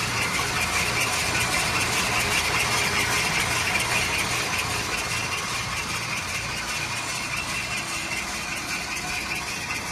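Diesel engine of a Gravely ProChip 12108 wood chipper running steadily, with a low pulsing hum under a higher mechanical whine; it gets a little quieter in the second half.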